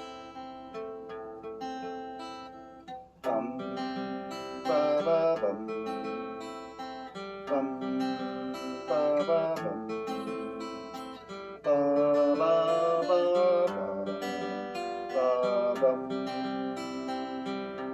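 Acoustic guitar playing an instrumental introduction: strummed chords under a picked melody, with sharp chord strikes a few seconds in and again near the middle.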